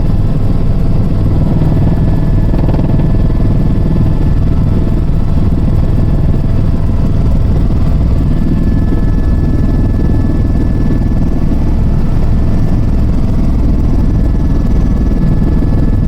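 Helicopter engine and rotor noise, a loud steady drone strongest in the low range, with a faint high whine from about halfway through.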